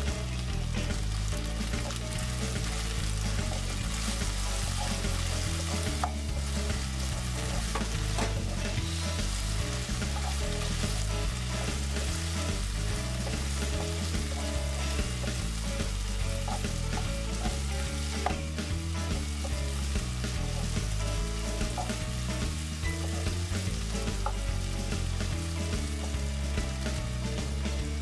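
Chicken breast pieces sizzling as they fry in a pan. They are stirred and scraped with a wooden spoon, which knocks now and then against the pan.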